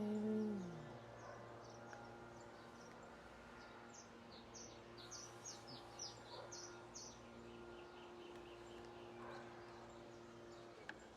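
Bird calling faintly: a quick run of high, falling chirps a few seconds in, then softer repeated notes, over a low steady hum.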